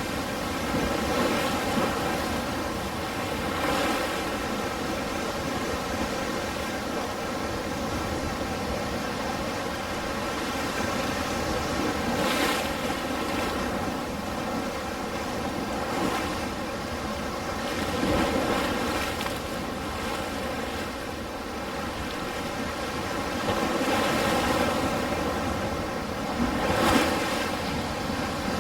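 Ocean surf: a continuous wash of waves rising and falling, with a louder breaking wave about 12 seconds in and another near the end.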